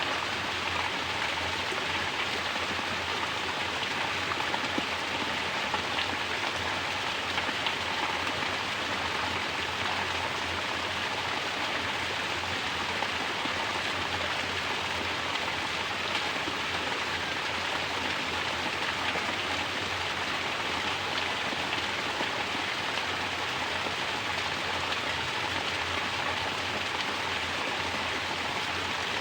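Mountain water pouring down as a natural shower and splashing, a steady, even hiss of falling water.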